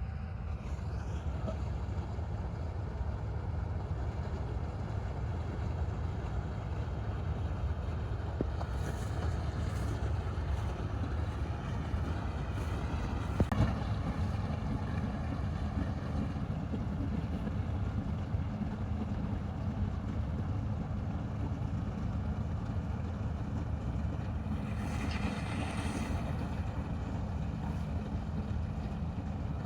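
Combine harvester's diesel engine and threshing machinery running steadily while harvesting paddy, a deep even drone. A single sharp knock about halfway through.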